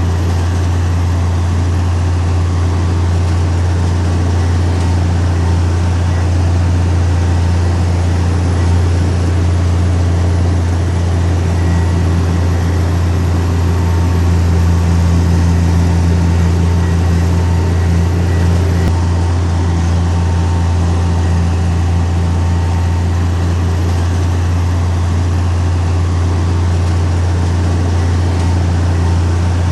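Heavy earthmoving machine's diesel engine running steadily under a constant low hum, with no clear rise or fall in speed.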